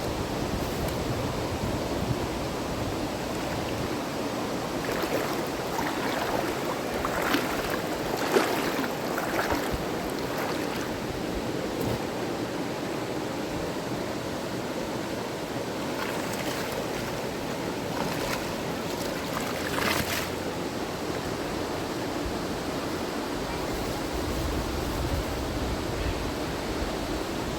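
River water rushing steadily, with a few short sharper splashes or knocks about a third of the way in and again near the middle.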